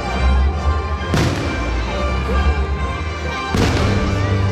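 Two fireworks shells bursting, about a second in and again past three and a half seconds, the second with a longer rumble after it, over show music and crowd noise.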